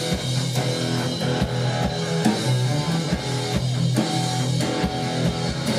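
Live rock band playing an instrumental passage between sung lines: guitars and a drum kit keeping a steady beat.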